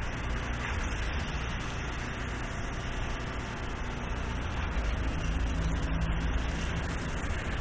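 Steady low rumble of a heavy motor vehicle's engine running on a snow-covered street, with its engine tone a little stronger about five seconds in.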